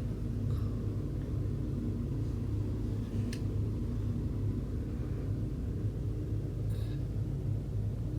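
A steady low hum, with a couple of faint short clicks, about three seconds and about seven seconds in.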